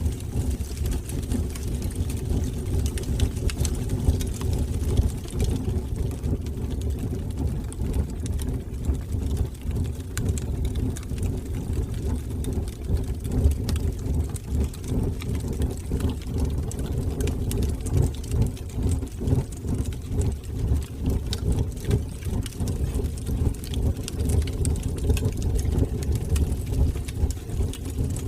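Wood fire burning in a fireplace: a steady low roar of the flames with frequent small crackles and pops scattered throughout.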